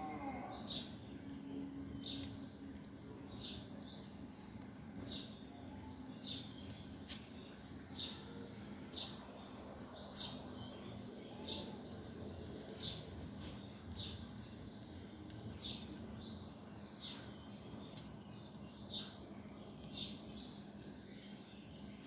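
A bird chirping over and over, one short high note roughly every second.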